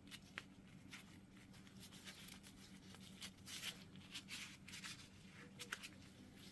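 Faint rubbing and light clicks of an ABS wheel-speed sensor being pushed and wiggled into its bore in the hub bearing, over a low steady hum.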